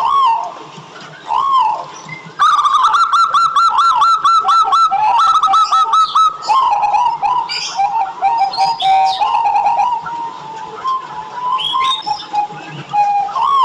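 Zebra doves (perkutut) cooing: single arched coos, then, a couple of seconds in, a loud fast run of short clipped notes lasting about four seconds, followed by a lower, softer run of notes and single coos again near the end.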